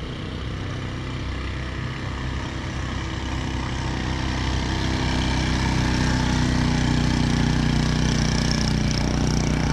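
Motorcycle tricycle's engine running on the road, getting louder about halfway through as it comes closer.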